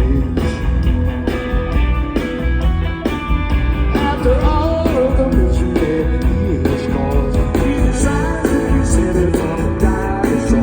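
A live rock band playing a song with a heavy, steady bass line under guitar and other pitched instrument parts.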